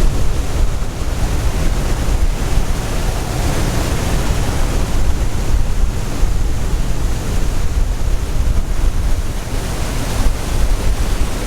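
Wind blasting the microphone on a boat running at speed across the water: a loud, steady rush with a deep rumble underneath.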